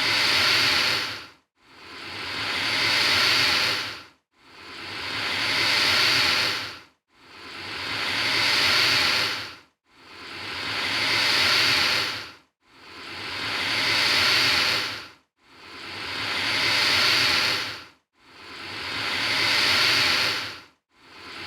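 Alligator hissing over and over, one long hiss about every three seconds. Each hiss swells up and then cuts off sharply, and every repeat is identical, as from a looped recording.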